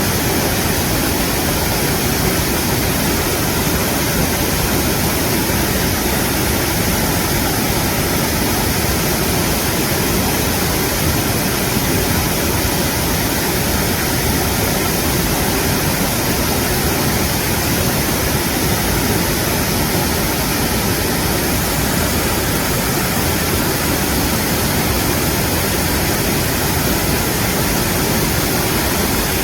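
Mountain stream rushing over rocks in a steady, loud, unbroken wash of water.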